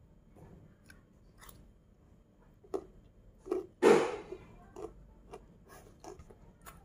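A child chewing a mouthful of fried rice with her mouth closed: small scattered crunches and mouth clicks, with one louder, short mouth noise about four seconds in.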